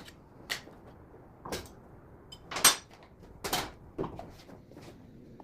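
A series of about six short, separate scrapes and knocks, the loudest a little past the middle, with no steady motor running between them.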